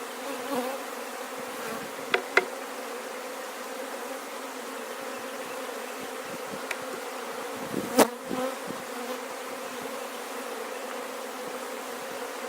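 Honey bees buzzing steadily around an open hive. A couple of sharp clicks come about two seconds in, and a louder knock about eight seconds in.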